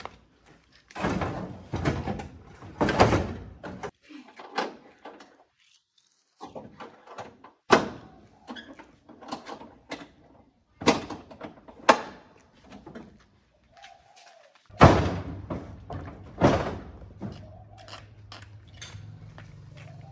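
A string of irregular loud bangs and thuds, with several heavy knocks a second or more apart. A low steady hum starts near the end.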